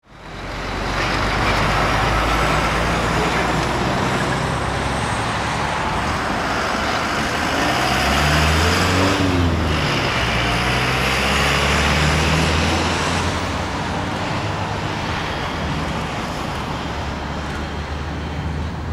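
Airbus A380-841's four Rolls-Royce Trent 970 turbofans at takeoff thrust, a loud roar as the jet passes. The pitch sweeps and the sound is loudest about halfway through, then fades slowly.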